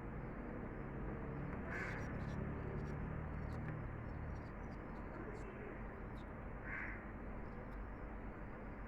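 Pet lovebirds chirping and squawking in short calls over steady background noise, with two louder squawks about two seconds and seven seconds in.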